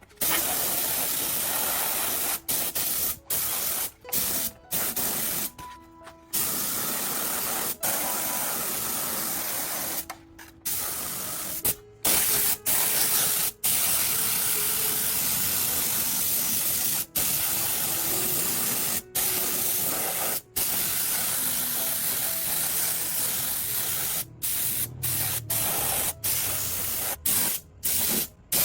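Pressurized spray or air jet hissing in long bursts. It cuts off sharply and restarts many times, as a trigger is released and pulled again.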